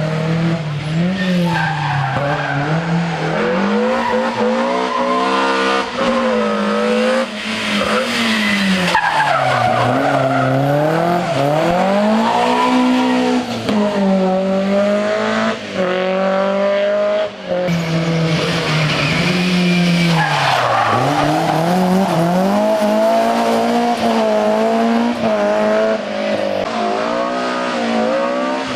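A rally car's engine driven hard, its pitch climbing with each gear and dropping at each change and lift-off, over and over, with tyres squealing at times.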